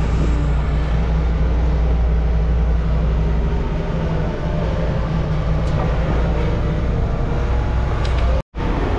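Large engine running steadily, a continuous low droning hum, with the sound cutting out completely for a moment about eight and a half seconds in.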